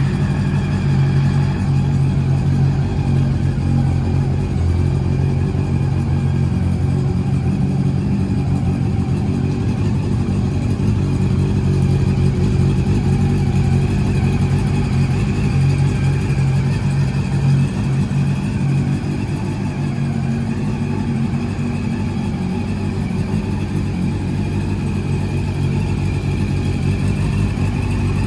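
Honda CB400 Super Four VTEC Spec3's inline-four engine, breathing through a Moriwaki full exhaust, idling steadily just after being started.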